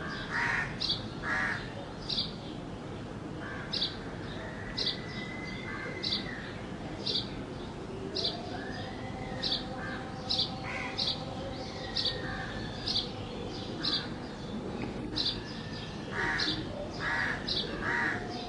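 Sparrow chirping: short, high chirps repeated about once a second, with a few lower bird calls near the start and again near the end.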